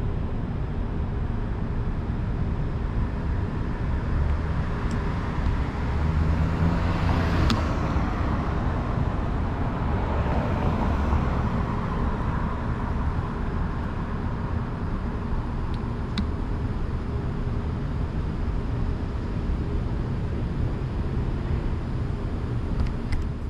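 Street traffic noise: a steady rumble, with a vehicle passing that grows louder and fades about halfway through.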